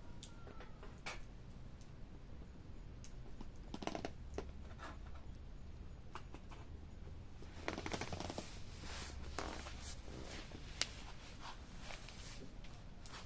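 Wood campfire crackling softly, with scattered small pops and one sharp pop about 11 seconds in.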